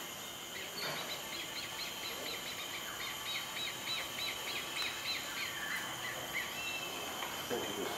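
A small bird singing a quick run of short, high, arched chirps, about four a second, over a steady high-pitched drone in the background.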